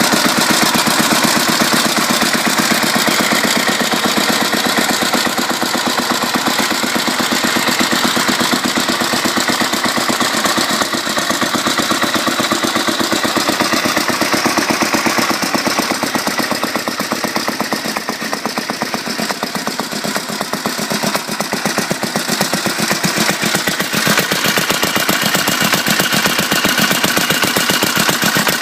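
Bernard D2 8 hp single-cylinder petrol stationary engine running steadily, with a fast, even beat of firing strokes that eases slightly in level partway through.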